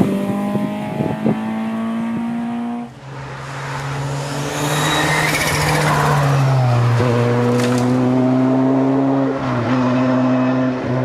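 Historic rally cars at full racing pace: one engine held at high revs, rising slowly, breaks off abruptly about three seconds in. A second car's engine then builds under heavy noise, falls in pitch around six seconds in and holds steady revs.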